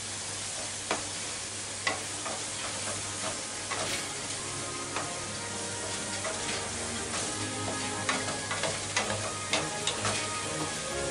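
Vegetables sizzling in a hot non-stick frying pan while a wooden spatula stirs them, with repeated clicks and knocks of the spatula against the pan that come more often in the second half. Faint background music comes in partway through.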